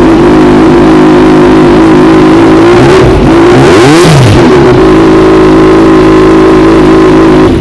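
Kawasaki Ninja 1000's inline-four engine idling loudly through an Over Racing titanium full-system exhaust, revved once about three to four seconds in, then back to a steady idle before cutting off abruptly at the end.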